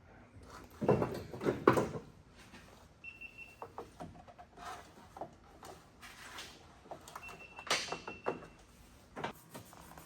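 Knocks, clunks and rattles of dash parts and hardware being worked loose by hand during a car teardown, loudest about a second in, with scattered clicks and two short squeaks later on.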